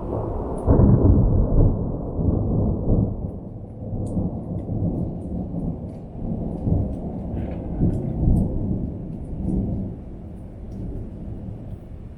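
Rolling thunder: a deep rumble that swells sharply just under a second in, rolls on in several surges, and fades near the end.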